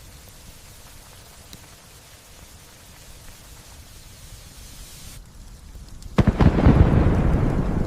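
Light steady rain, then a sudden loud thunderclap about six seconds in that breaks with a crackle and goes on rumbling as it slowly fades.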